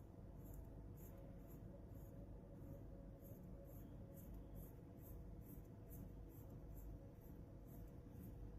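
Near silence: low room hum with faint, regular high-pitched ticks, about two or three a second.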